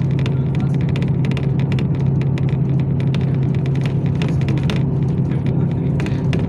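Yutong ZK6118HGA city bus driving, heard from inside the passenger cabin: a steady low engine drone with frequent rattles and clicks.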